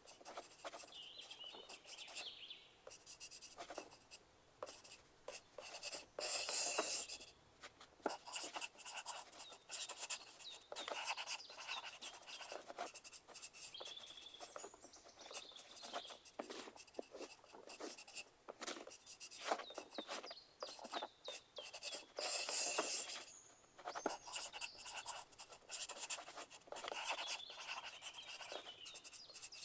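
Pencil writing on paper: a continual run of short scratchy strokes and light taps, with louder, longer scratching stretches about six seconds in and again about twenty-two seconds in.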